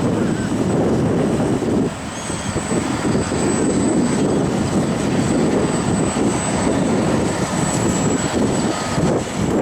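Hydrema 912 water truck running, a loud steady rough rumble with a brief dip about two seconds in.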